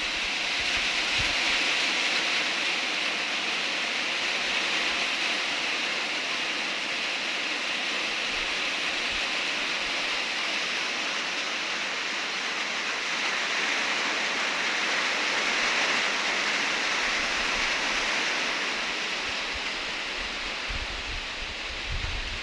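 Steady rain falling, an even hiss that swells and eases slightly, with a low wind rumble on the microphone near the end.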